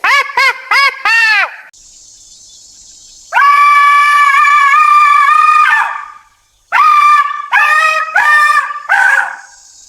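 A dog-family animal calling: four quick rising-and-falling yips, then a long steady howl of about two and a half seconds, then a run of shorter wavering yelps in the last few seconds.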